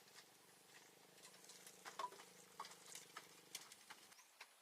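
Near silence: faint scattered light clicks over a faint low hum that stops about four seconds in.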